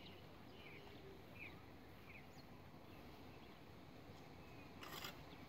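Near silence with faint, scattered short bird chirps, and one brief noisy scrape a little before the end.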